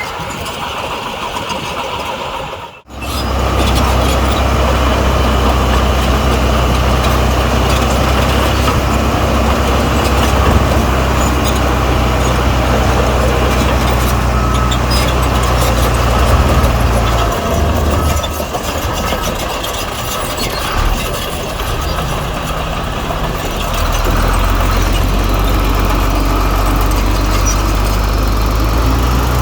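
Heavy diesel engine of earth-moving machinery running under steady load, with a deep, even engine note. There is a brief cutout about three seconds in. The engine eases off for several seconds past the middle and picks up strongly again near the end.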